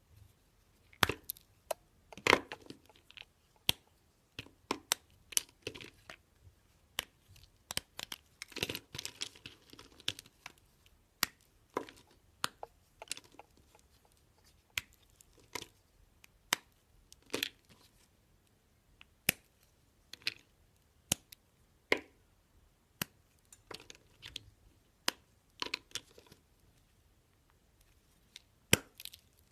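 Slime being worked, giving sharp, irregular pops and clicks, about one or two a second, with a couple of brief crackling stretches.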